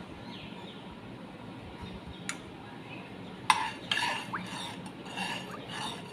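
Kitchen utensils clinking against dishes: a small click, then a sharp clink about three and a half seconds in, followed by several more clinks, over a steady low hum.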